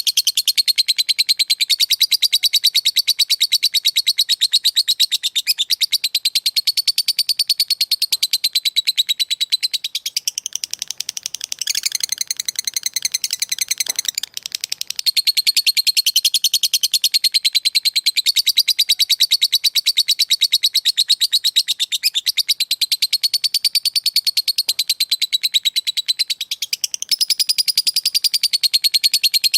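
Lovebird giving its long 'ngekek' chatter: an unbroken, very rapid run of high, sharp notes. The chatter softens and breaks up between about 10 and 15 seconds in, then resumes at full strength.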